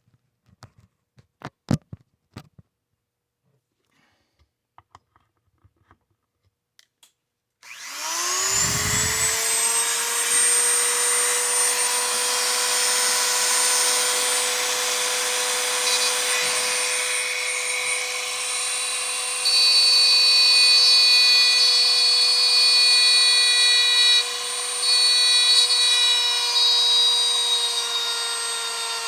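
A few light handling clicks, then about eight seconds in a high-speed rotary tool spins up to a steady high whine and grinds, getting louder from about twenty seconds in as it cuts into the Aurora HO slot car chassis to grind it down to fit.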